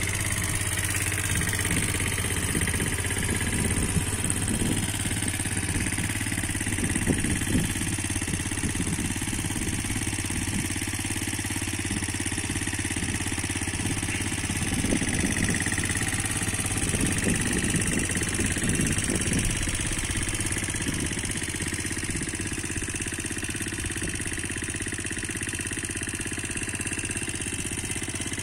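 A Kawasaki Eliminator 125's single-cylinder four-stroke engine idling steadily.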